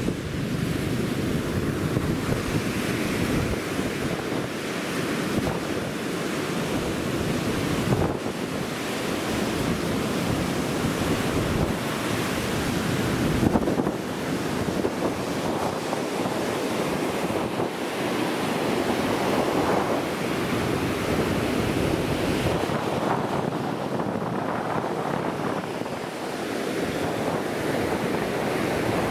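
Ocean surf washing steadily onto the beach, mixed with wind buffeting the microphone.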